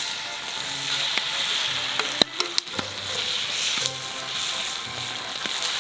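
Korean pancake (buchimgae) batter frying in oil in a pan, a steady sizzle, with a sharp click about two seconds in.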